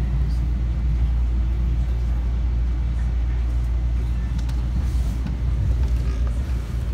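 Metro-North M7 electric multiple-unit train in motion, heard from inside the passenger car: a steady low rumble of the running train.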